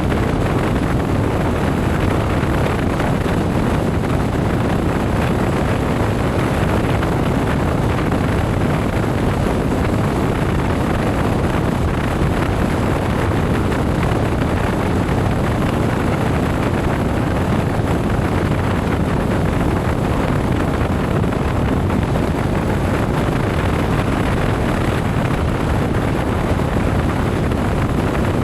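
Motorcycle riding noise: wind rushing over the microphone, with engine and road noise, steady throughout.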